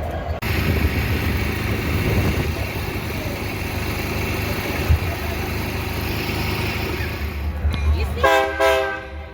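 Diesel locomotive idling with a steady low rumble. Near the end its multi-note air horn sounds briefly.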